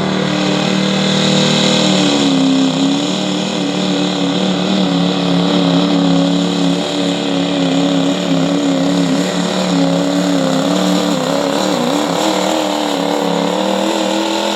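2006 Chevy diesel pickup pulling the sled at full throttle, engine running hard under load. Its pitch dips about two seconds in, then holds steady with a slight waver until it cuts off near the end.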